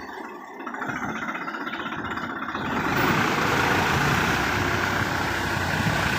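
Swaraj 744 FE tractor's three-cylinder diesel engine running, growing louder about three seconds in and then holding steady.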